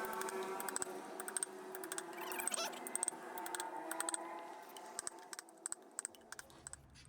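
Quick, irregular light clicks and taps, over a faint steady hum that fades out about six seconds in.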